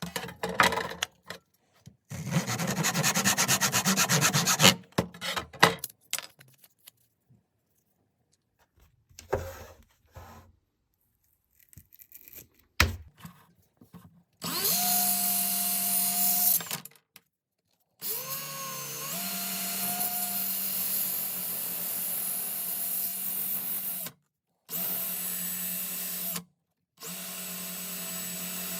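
A few seconds of rubbing strokes, then scattered small clicks, then a small electric power tool running in four bursts, each a steady whine; the second rises in pitch as it gets up to speed.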